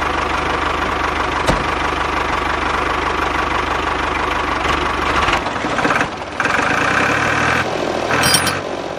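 A small motor running steadily for about five seconds, then shifting in level and pitch several times.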